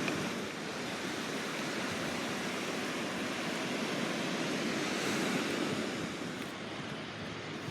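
Sea waves washing onto the shore, a steady rush that swells about five seconds in and eases off.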